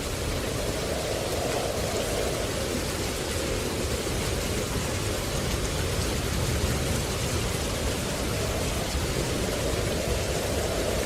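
Steady rushing water noise, swelling and easing slowly every few seconds.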